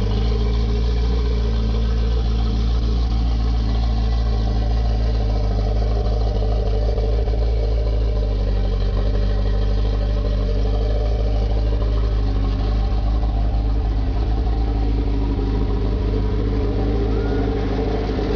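Ferrari 288 GTO's twin-turbocharged V8 idling steadily.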